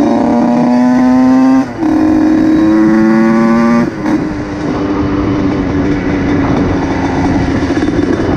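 Motorcycle engine accelerating, its pitch climbing steadily with two brief breaks as it shifts up, about two seconds in and again near four seconds, then running on at a steady speed.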